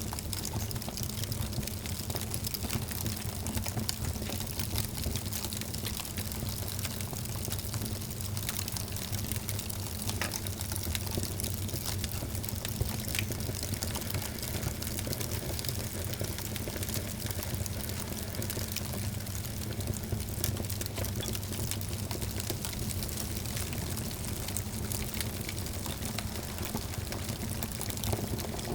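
Wood fire crackling steadily in a fireplace: many small pops and snaps over a low, even rumble of the flames.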